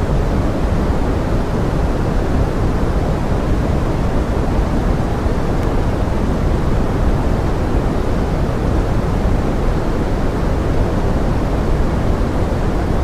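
Steady pink noise blended with forest rain: an even, deep rushing hiss, heavier in the low end, unchanging throughout.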